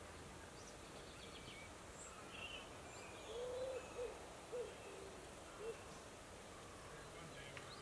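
A bird's low calls, four in a row around the middle: a longer one, then three short ones. Faint high chirps of small birds sound over a quiet outdoor background.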